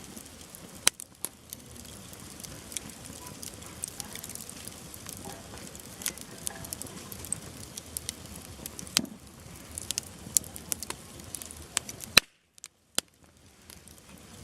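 Campfire of firewood burning, with a steady rush of flame and frequent sharp crackles and pops from the burning wood. The sound cuts out for about a second after a loud pop near the end, then resumes.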